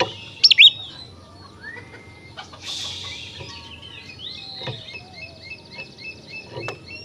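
Oriental magpie-robin (kacer) singing: loud whistled notes about half a second in, then a run of short, evenly repeated chirps at about two a second.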